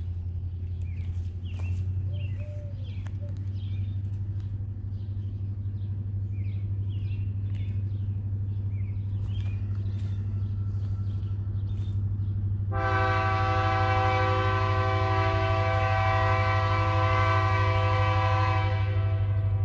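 Missouri & Northern Arkansas Railroad diesel locomotive approaching, its low rumble slowly growing louder while birds chirp. About thirteen seconds in, its horn sounds one long blast of about six seconds.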